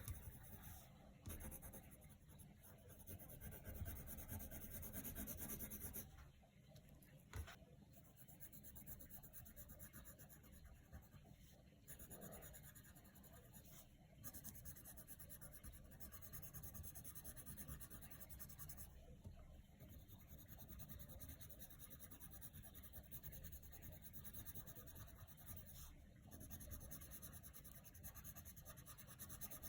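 Coloured pencil scratching back and forth on paper, faint, stopping briefly every few seconds.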